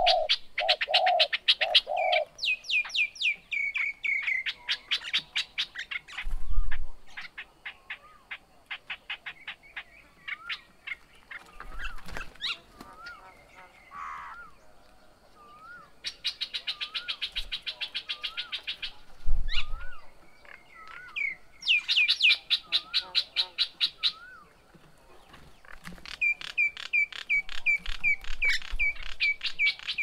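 Birds calling: fast runs of repeated chirps and trills, with a short rising-and-falling whistle repeated about once a second through the middle, and a few low thumps.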